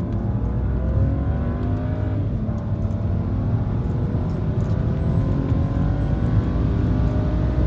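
Twin-turbo BMW 328i's inline-six under hard acceleration in third gear, heard from inside the cabin, its pitch climbing steadily as the revs rise.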